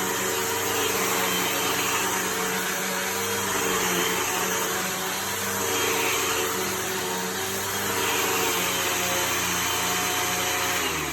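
Hoover vacuum cleaner running steadily, a motor hum over a broad rush of air. Right at the end the motor begins to wind down as it is switched off.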